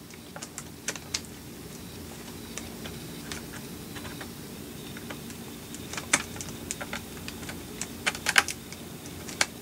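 Scattered small plastic clicks and taps as a micro USB plug and phone are handled and pushed into place, with a bunch of quick clicks about six seconds in and more near the end. A low steady hum runs underneath.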